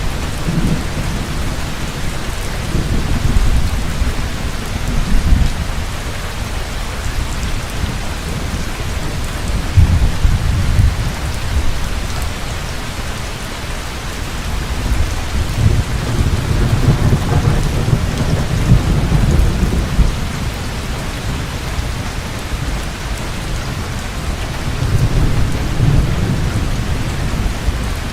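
Heavy rain falling steadily, with deep thunder rumbling in slow swells several times.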